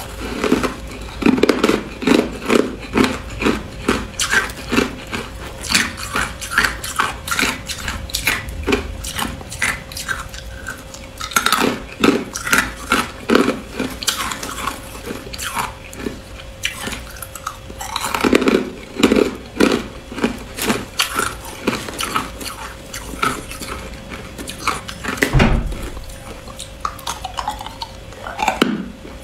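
A person biting and chewing hard clear ice: rapid cracking and crunching that comes in louder bursts with quieter stretches of chewing between.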